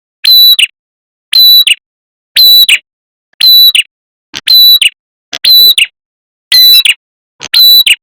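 Looped lure recording of a red-headed prenjak's call: one short, high call repeated about once a second, eight times, each identical and played at full loudness.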